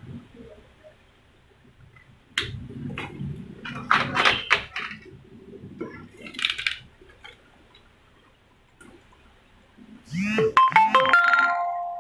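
Bench handling clatter, then about ten seconds in a short electronic jingle of sliding and held notes, like a ringtone or a device's start-up chime.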